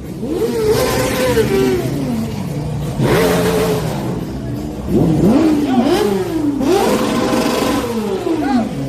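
Car engine revving in repeated blips, the pitch climbing and falling each time: a long rev near the start, a quick run of short blips midway, and another long rev near the end.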